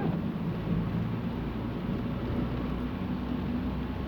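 Steady cabin noise of a car driving slowly on a wet road: a low, even engine hum under a constant hiss from the rain-soaked road.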